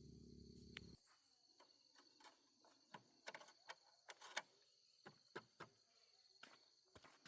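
Near silence with faint scattered clicks and taps; a low hum cuts off about a second in.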